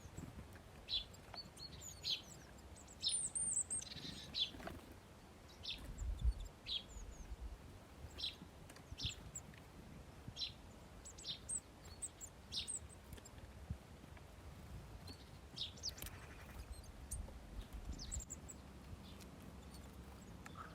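Small birds chirping at a feeder: short, sharp chirps about once a second, with a few thinner, higher notes between them.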